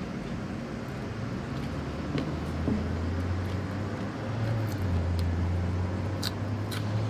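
A low, steady motor hum that comes in about two seconds in and holds, with a few faint clicks over it.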